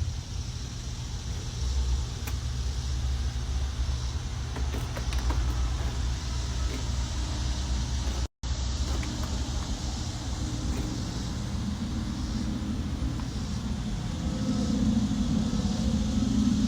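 Steady low rumble of vehicle noise, as from a moving car, cutting out for a moment about eight seconds in; a low hum grows louder near the end.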